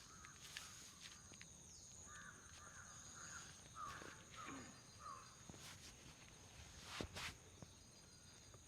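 Faint head-massage sounds: scattered light taps and rustles of hands on the head and hair, over a steady faint high tone, with a quick run of five or six short chirps between about two and five seconds in.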